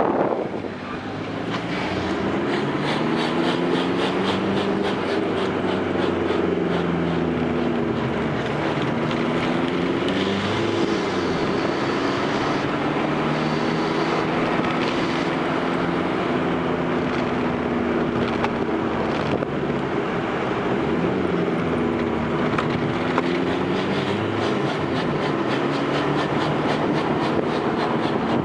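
Fiat Grande Punto's 1.9 Multijet diesel engine running, its pitch rising and falling repeatedly as the revs change.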